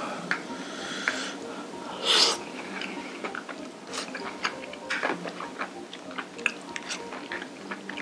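Close-miked eating sounds: a person chewing and biting into stir-fried webfoot octopus and beef brisket, with many small wet clicks throughout. There is one louder noisy burst about two seconds in.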